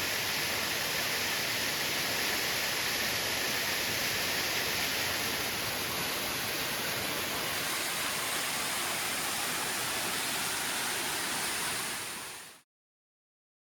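Waterfall rushing as a steady, loud roar of falling water, fading out quickly about twelve seconds in.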